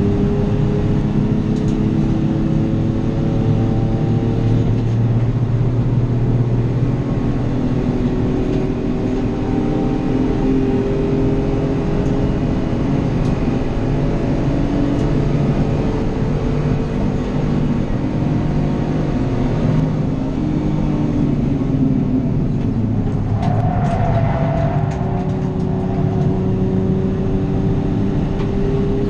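Small city-based racing car's engine heard from onboard, running hard with its pitch climbing and falling as it accelerates and lifts through gear changes. About 23 seconds in, a brief harsher, higher-pitched noise rises over the engine for a second or two.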